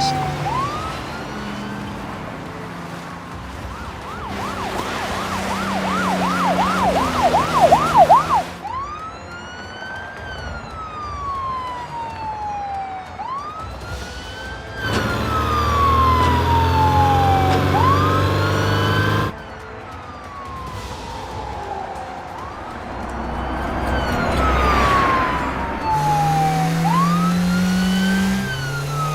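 Police car siren on a wail, each cycle rising quickly and then falling slowly over about four seconds. About four seconds in it switches to a fast yelp for a few seconds. Under it a vehicle engine hums, rising in pitch near the end as it speeds up.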